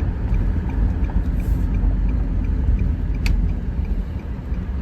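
Car driving along a road, heard inside the cabin: a steady low engine and road rumble, with faint ticking about two to three times a second and one sharp click about three seconds in.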